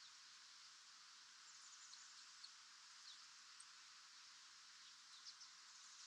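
Near silence: a steady faint hiss with a few short, faint high bird chirps scattered through.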